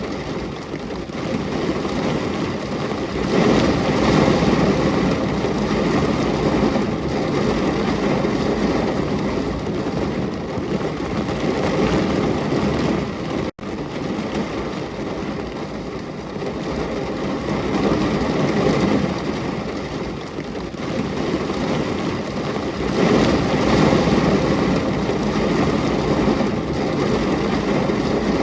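Steady heavy rain, a dense even hiss with a low rumble, swelling louder twice; it cuts out for an instant about halfway through.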